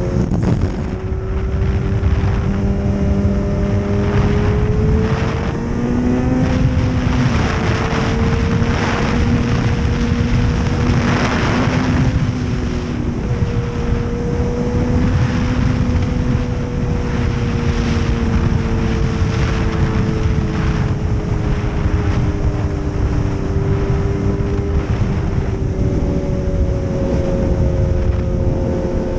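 Motorcycle engine running at a steady cruise, its pitch drifting slowly up and down, over a heavy rush of wind and road noise.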